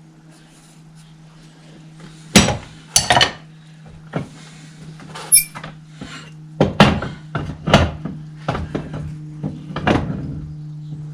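Irregular metal knocks and clanks, as a hammer strikes steel tractor parts: two loud blows about two and a half seconds in, then a run of lighter knocks, one with a brief high metallic ring. A steady low hum runs underneath.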